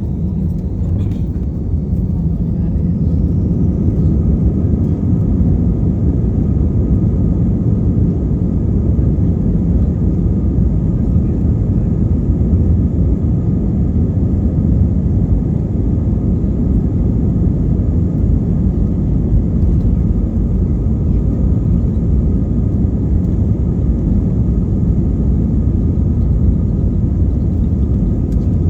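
Airbus A320-232's IAE V2500 turbofan engines spooling up, a whine rising in pitch over the first few seconds as the sound grows louder, then a loud steady rumble at high thrust, heard inside the passenger cabin, typical of the takeoff roll.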